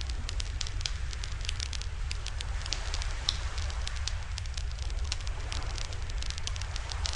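Wood fire burning in a portable barbecue-grill fire stand, crackling with frequent irregular sharp pops and snaps over a steady low rumble and soft hiss.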